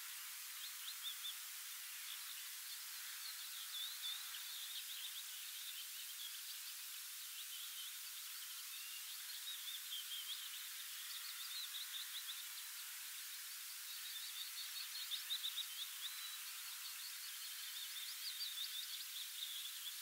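Songbirds singing: long runs of rapid, high chirps and trills, over a faint steady hiss.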